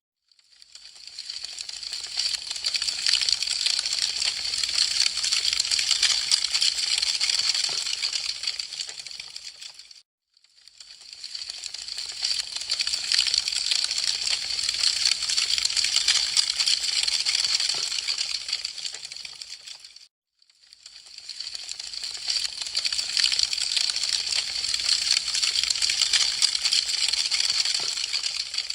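Dense crackling and popping of burning wood, in a loop of about ten seconds that fades in from silence, holds, and fades out again, three times over.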